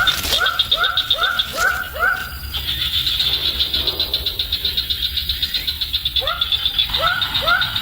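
Short upward-sliding calls repeated about two a second, breaking off for about four seconds midway, over a steady, rapidly pulsing high-pitched buzz.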